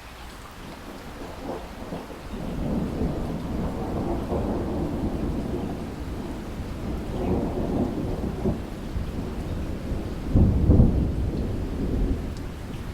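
Rolling thunder over steady heavy rain. The rumble builds about two seconds in, swells again midway, and its loudest peak comes near the end before it dies away.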